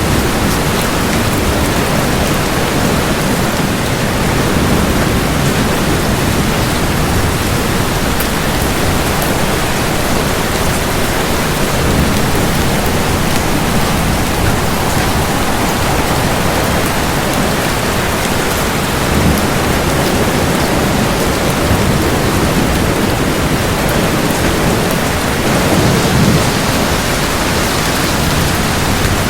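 Heavy, steady rain, with low thunder rumbles swelling a few times, the strongest near the end.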